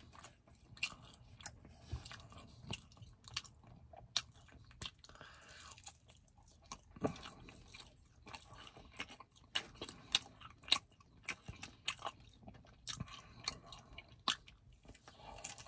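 Close-up chewing of fatty meat with crispy skin, full of short sharp crunches and wet mouth clicks. A fresh bite into the meat comes near the end.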